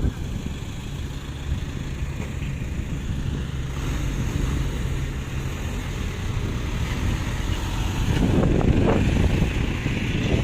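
A dump truck engine running with a steady low rumble that slowly grows louder. From about eight seconds in, wind buffets the microphone.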